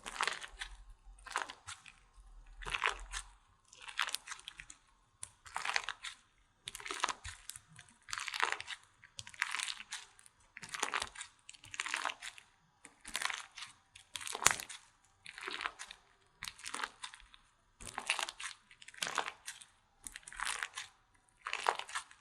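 Slime being squeezed and pressed by hand close to a microphone, giving crackly, crunchy squishes in a steady rhythm of about one a second.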